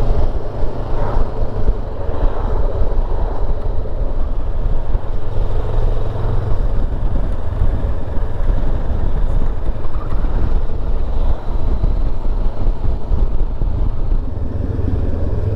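A motorcycle on the move at road speed: steady engine and wind noise.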